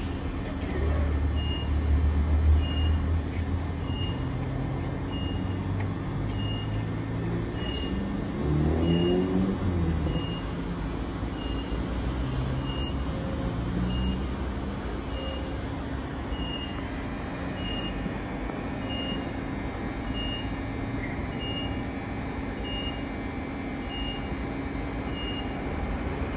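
Suburban electric train rumbling at the station, loudest in the first few seconds, with its motors whining briefly up and down partway through. A short high electronic beep repeats about once every second and a bit throughout.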